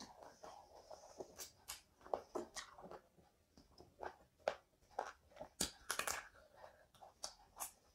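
Close-miked chewing and wet mouth sounds of someone eating rice and chicken curry by hand, with many short, sharp lip smacks and clicks scattered throughout.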